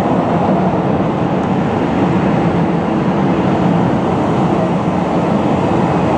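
Jet airliner engines running steadily on the ground, a loud, even rumble with a faint steady hum in it.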